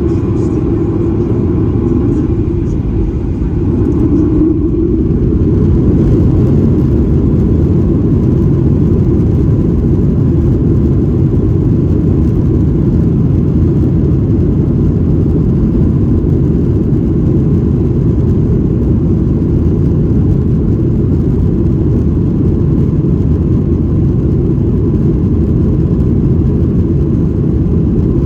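Boeing 737-800 cabin noise: a steady, loud engine and airflow rumble, rising slightly about five seconds in.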